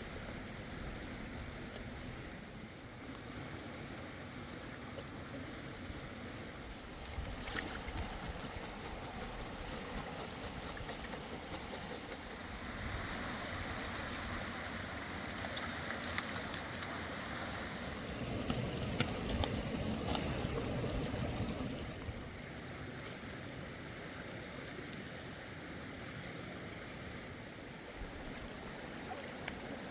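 River water rushing steadily, with scattered light clicks and knocks over it and a louder spell about two-thirds of the way through.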